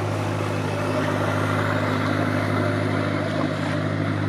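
An engine running steadily: a low, even hum with a hiss over it.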